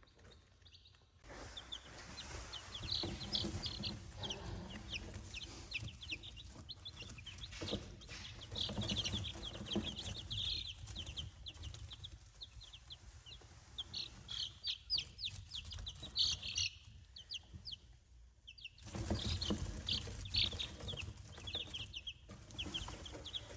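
A brood of days-old chicks peeping, many short, high cheeps overlapping one another, with a brief lull about seventeen seconds in.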